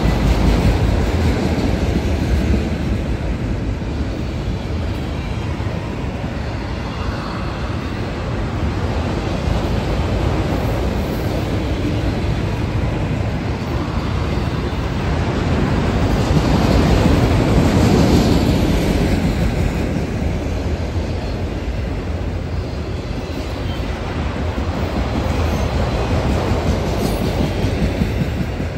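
Norfolk Southern freight train's cars rolling past on the main line: a continuous rumble of steel wheels on rail that swells louder about two thirds of the way in.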